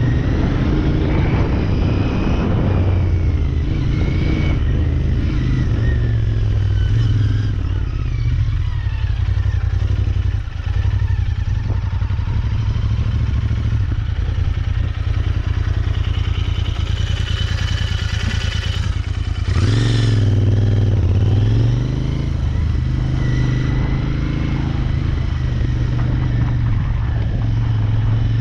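Royal Enfield Interceptor 650 parallel-twin engine running at low speed through a cone course, its pitch rising and falling as the throttle is opened and closed, with a brief drop about ten seconds in and a stronger burst of throttle around twenty seconds in.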